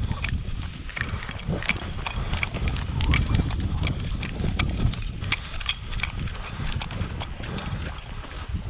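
Strong wind buffeting the microphone in gusts, with many short clicks and rustles scattered through it.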